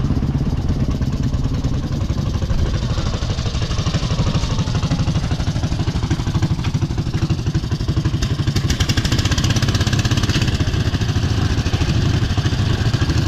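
Motorcycle engine running steadily, with a fast, even low pulsing.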